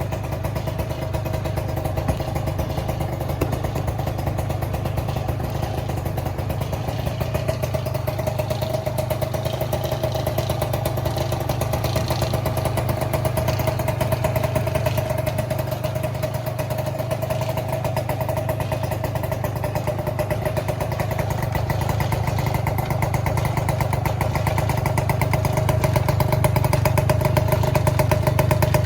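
Honda Joker 90 scooter's single-cylinder two-stroke engine, fitted with an aftermarket muffler, running steadily at idle. It gets a little louder over the last few seconds.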